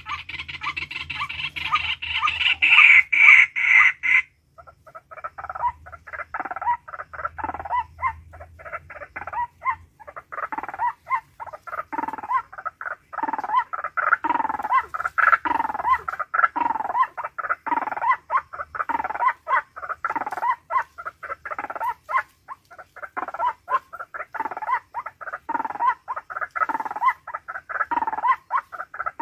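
A denser sound for about four seconds cuts off abruptly, then an animal calls over and over, short calls that each fall in pitch, about one to two a second.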